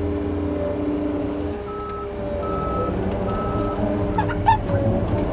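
Diesel heavy equipment running steadily while its reverse alarm beeps three times, about a second apart, as the machine backs up. A brief sharp sound comes near the end.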